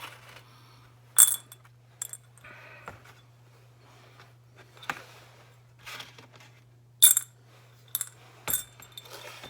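Small metal tools and carburettor parts clinking and tapping during carb disassembly, about half a dozen sharp clicks scattered through, over a steady low hum.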